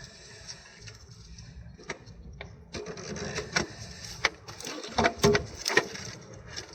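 Hand-tool and metal clicks, knocks and rattles while the gear shift actuator of a Toyota MMT gearbox is being taken off: a few scattered clicks at first, then a busy run of clicking and knocking from about three seconds in.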